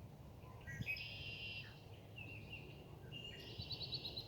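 Songbirds singing: a few short whistled phrases, then a fast trill of repeated high notes starting near the end, over faint outdoor background noise.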